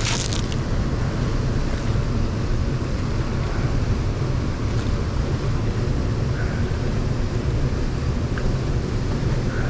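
Steady rushing of fast-flowing river water, with a deep rumble in the low end.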